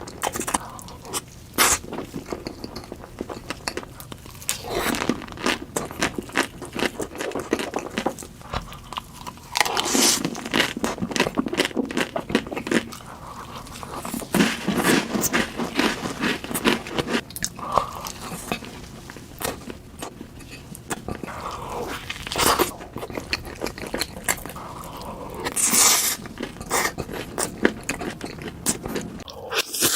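Close-miked eating sounds: crunchy bites and chewing, with dense clusters of sharp crackles.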